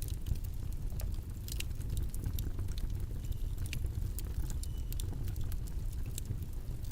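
Steady low background rumble with many light, scattered clicks and taps over it.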